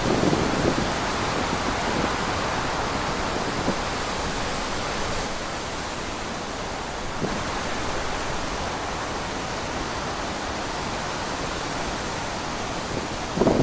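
Wind blowing steadily, a constant rushing noise, with short louder gusts at the very start and again near the end.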